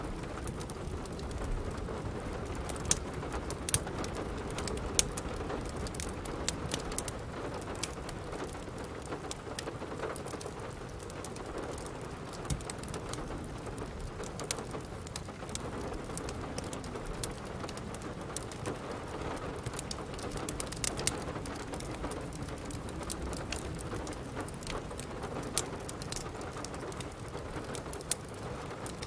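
Steady rain with a wood fire crackling: a constant rain hiss under many sharp, irregular pops and snaps.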